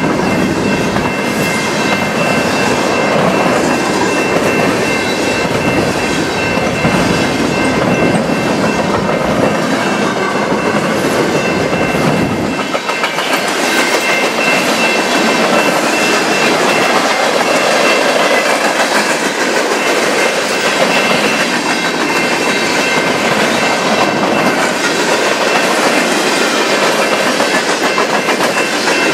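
A CN freight train's cars rolling past close by, with the steady clickety-clack of wheels over the rail joints and a faint, steady high-pitched ringing. The deep rumble thins out about halfway through while the rolling noise carries on.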